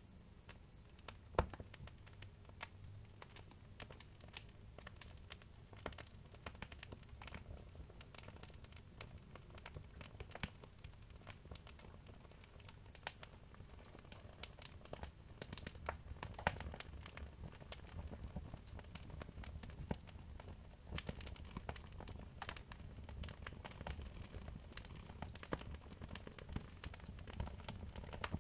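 Wood fire crackling in a fireplace: irregular sharp pops and snaps over a steady low rumble, with a louder pop about a second and a half in.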